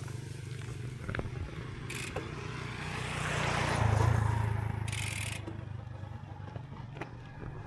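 A motor vehicle's engine running, with a steady low hum that swells louder around the middle and fades again, then one short sharp sound near the end.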